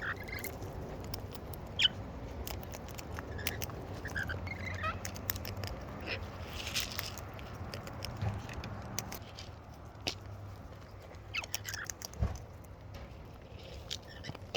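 Cockatoos feeding at close range: scattered beak clicks and crunching, with a few short, soft chirps.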